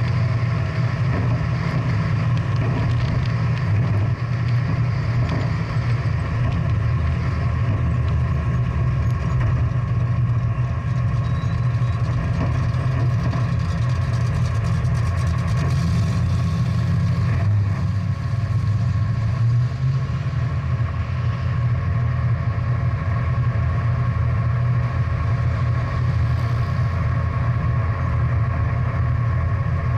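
Big-block V8 muscle car engine running steadily at low, even revs, with no revving.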